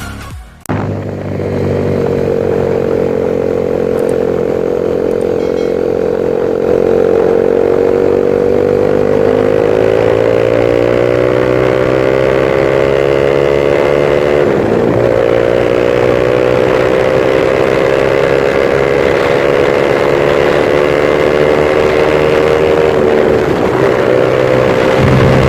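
Honda Sonic 150R's 150 cc single-cylinder four-stroke engine running through a CLD Monster X Series aftermarket exhaust. Its pitch climbs slowly as it pulls, dipping briefly twice, about halfway and near the end.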